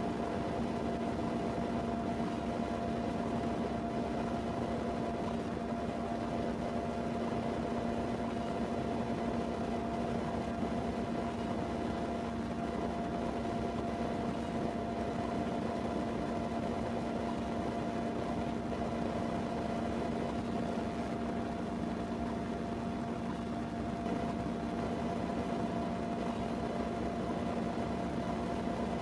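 Steady hum and rush of a vehicle cabin: engine, road and ventilation-fan noise holding constant, with a couple of unchanging hum tones.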